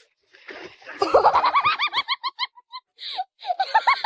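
A person laughing in quick, high-pitched bursts, in two runs of short giggles about six a second, with a short pause between them.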